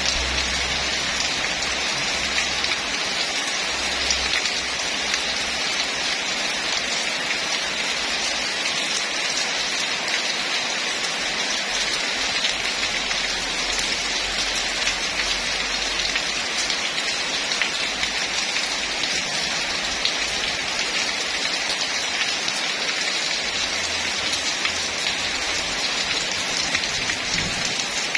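Heavy rain falling steadily: a dense, even hiss of countless drops striking surfaces, without let-up.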